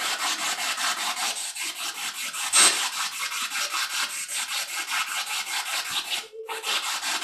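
Spirit box sweeping through radio stations: choppy radio static cut into rapid even pulses, about six or seven a second, with a louder burst about two and a half seconds in and a brief break about six seconds in.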